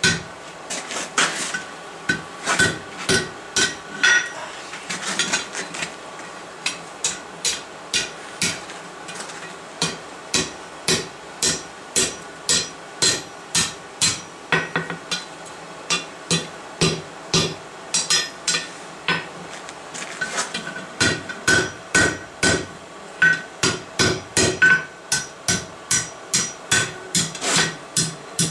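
Hand hammer striking steel on an anvil in a steady series of blows, about two a second, many leaving a short ring; forging a campfire poker.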